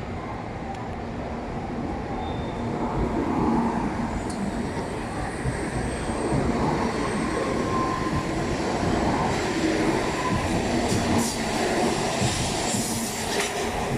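Shinkansen bullet train pulling away, its running noise building over the first few seconds and then holding steady, with a faint steady hum and a few brief high-pitched squeals and ticks in the later part.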